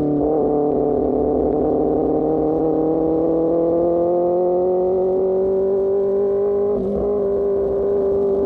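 Motorcycle engine through an Austin Racing GP1R aftermarket exhaust, under way and pulling steadily, its pitch climbing slowly for several seconds. About seven seconds in the note dips briefly, as at a gear change, then holds steady.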